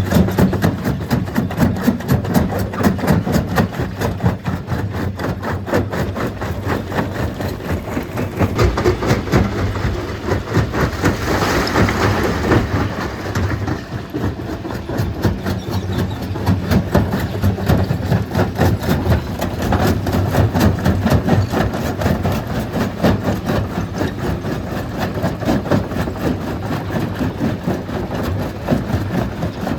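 Stone crusher running with a continuous rapid clatter of rock being broken and tumbling through the machine. A louder, harsher stretch comes about twelve seconds in.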